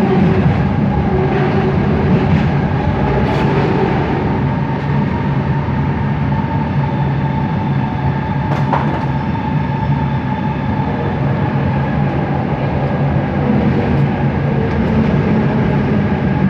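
Bombardier Innovia ART 200 metro train heard from inside a car while running: a steady rumble under held whining tones from its linear induction motors, with a couple of sharp clicks.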